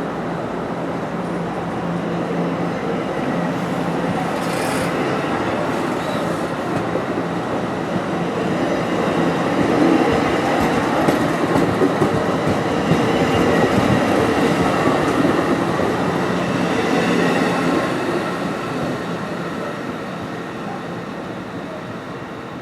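A train rolling past on the rails. The wheel and rail noise grows to its loudest through the middle and fades toward the end, over a steady low hum.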